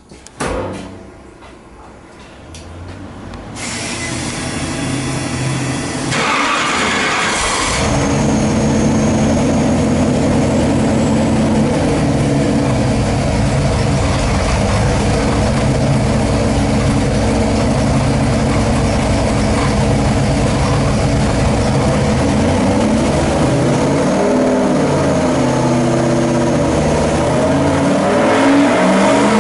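Ford 347-cubic-inch small-block V8 with stacked electronic fuel injection starting up: it turns over and fires between about six and eight seconds in, then runs steadily at idle. Its pitch shifts a few times near the end and begins to rise as it is revved.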